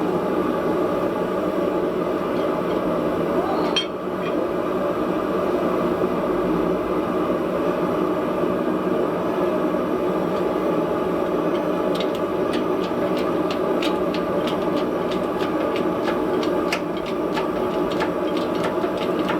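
Gas forge burner running with a steady, even rushing noise, with a few faint sharp clicks in the second half.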